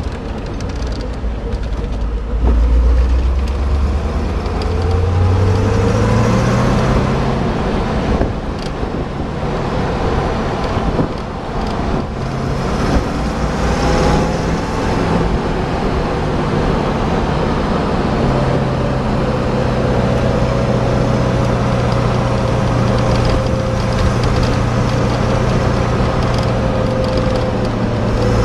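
1964 Corvette roadster's 327 V8 engine running on the move, heard from inside the open car. Its note climbs twice as the car accelerates in the first half, then settles into a steady cruise.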